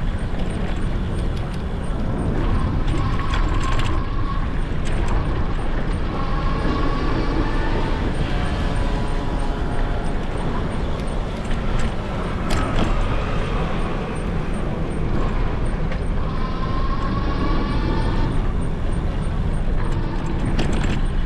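Wind rumbling on a GoPro's microphone on a moving e-bike, with road traffic passing. A whine rises in pitch twice, once about a third of the way in and again near the end.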